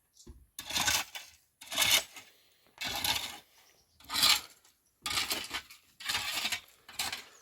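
Repeated rasping scrapes, about one stroke a second, as of something being rubbed or scraped back and forth.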